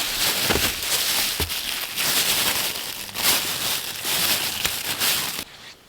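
Close crinkling and rustling handling noise that stops abruptly near the end.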